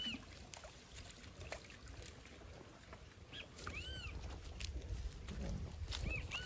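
A bird calling outdoors in short chirps, each a quick rise and fall in pitch: one near the start, one about four seconds in and a pair near the end. Under it a low rumble grows in the second half, with a few sharp clicks.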